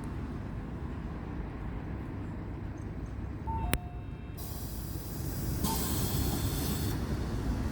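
Mitsubishi Fuso Aerostar bus's diesel engine idling with a steady low rumble. About halfway through comes a sharp click and a short beep, then a loud hiss of compressed air lasting about two and a half seconds.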